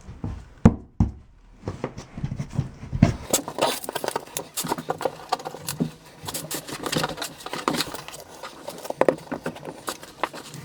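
Hand-tool work on the shower curb: a few sharp knocks, then about seven seconds of dense scraping and clicking.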